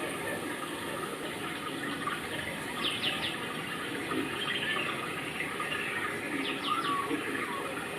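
Steady rushing sound like running water. Two short clusters of quick high bird chirps come about three and about seven seconds in.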